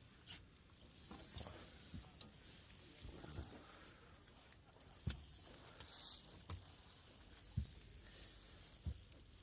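Fishing reel being cranked, a faint clicking mechanical whir, with a few low knocks of handling.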